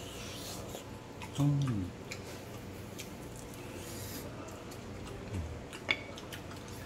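Someone chewing crunchy fried chicken wings, with small clicks and crackles. About a second and a half in, a voice gives a short falling hum, and near the end there is one sharp click.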